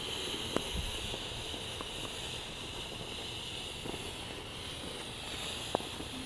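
Faint, steady high-pitched hiss of outdoor night air, with a few soft clicks.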